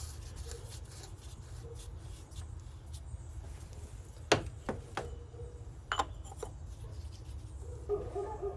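Oil filter cartridge and cap being handled and fitted into the engine's oil filter housing: light rubbing and a few sharp clicks, a handful in the middle, over a low steady hum.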